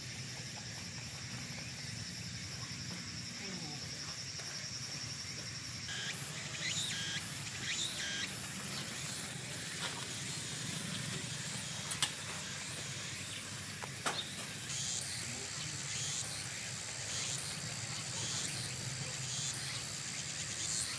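Insects, crickets or similar, trilling steadily in a high, rapidly pulsing chorus, with a few short chirps and two sharp clicks partway through.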